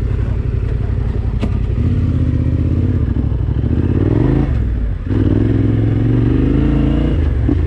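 Adventure motorcycle engine pulling under throttle on a muddy trail, rising in pitch, with a brief drop in revs about five seconds in before it pulls again. There is a sharp knock about a second and a half in.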